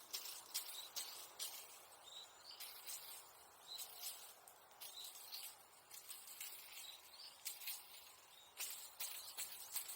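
Bonfire embers crackling faintly, with irregular sharp pops and ticks, some in quick clusters. Short, faint high chirps recur about once a second beneath them.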